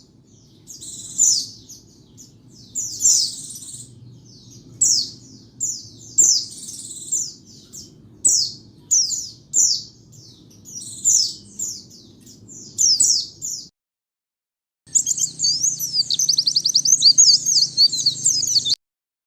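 White-eye (pleci) singing: short, high twittering phrases repeated about every second, then after a brief gap a faster, unbroken run of twittering. A faint low hum lies under the first part.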